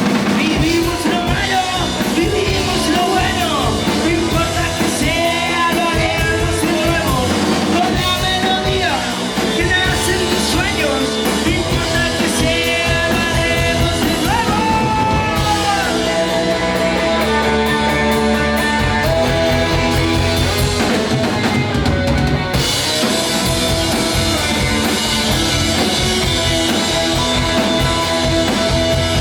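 Rock band playing live: drum kit, guitars and bass, with singing.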